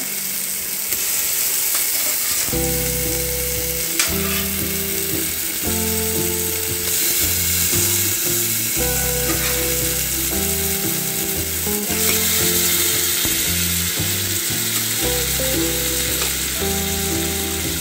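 Onion-tomato biryani masala frying with a steady sizzle in a steel pot. A background tune of low held notes plays over it from about two and a half seconds in.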